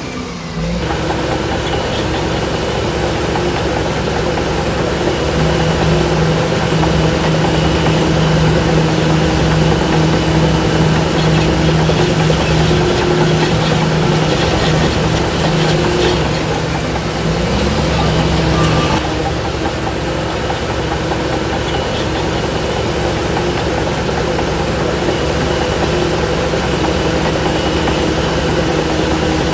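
Shantui DH17C3 bulldozer's diesel engine running steadily under load, with the machine's mechanical clatter; the engine note grows louder about five seconds in and eases back at about nineteen seconds.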